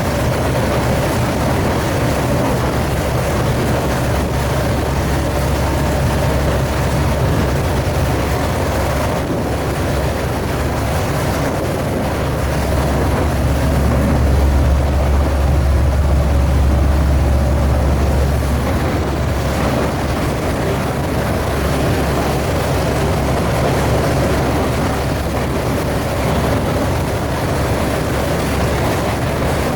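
Open-air tourist rail cart running steadily along the track, its engine and wheels making a continuous low rumble that grows louder for a few seconds about halfway through.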